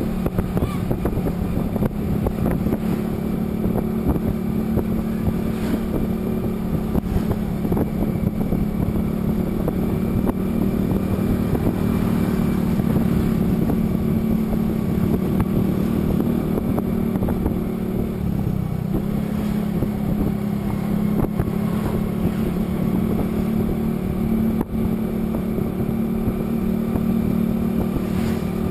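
A vehicle engine running steadily while travelling on the road, with wind noise on the microphone. The engine note drops briefly about two-thirds of the way through, then settles again.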